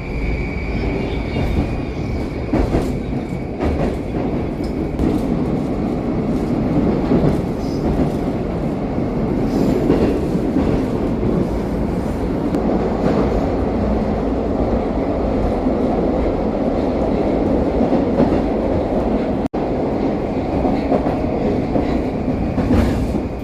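Moscow metro train running at speed through a tunnel between stations, heard from inside the car: a steady rumble of wheels on rails with clicks from the rail joints.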